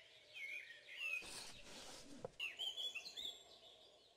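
Small birds chirping and twittering in outdoor ambience, many short calls overlapping. A short rush of hiss about a second in.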